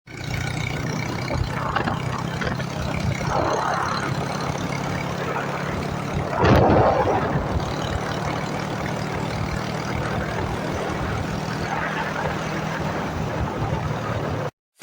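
Bajaj Pulsar 220's single-cylinder engine running steadily, with one louder swell about six and a half seconds in. It cuts off suddenly just before the end.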